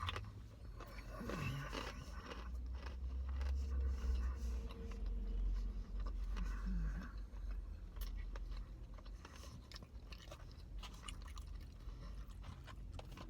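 Close-up chewing and crunching of extra crispy fried chicken tenders: irregular crackly bites and chews with no talking.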